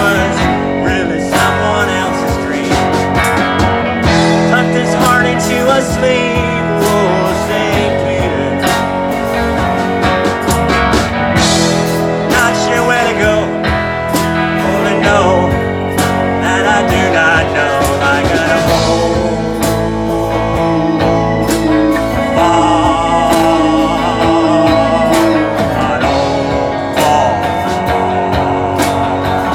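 A live band playing an instrumental stretch of a country-rock song: guitars over bass and drums, with a steady beat.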